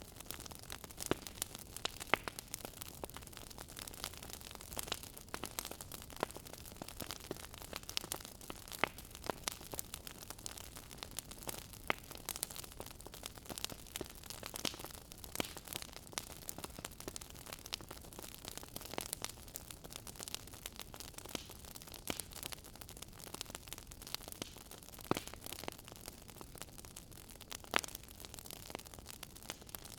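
Wood fire in a fireplace crackling: a steady soft hiss with many sharp irregular pops and snaps.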